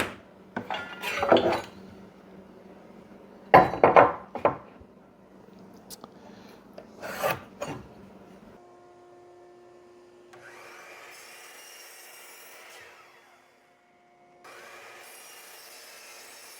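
Boards being handled and marked, with a few sharp knocks and scrapes. Then a saw makes two cuts through wood, each lasting about two and a half seconds, with a short pause between them.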